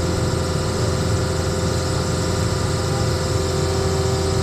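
An engine running steadily at a constant speed, a continuous hum with a couple of steady held tones over it.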